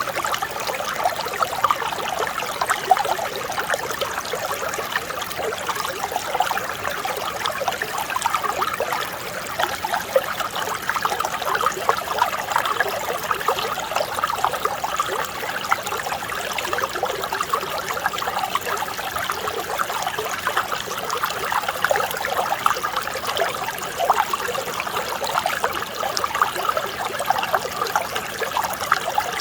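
Mountain stream running steadily: a gentle, unbroken babble of flowing water.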